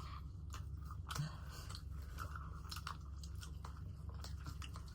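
Close-miked chewing and crunching of crispy KFC fried chicken, with many small, sharp crackles scattered throughout.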